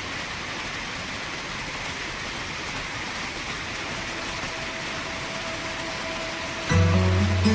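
Steady rushing of river water flowing over rocks. Near the end, music with sustained low notes comes in over it.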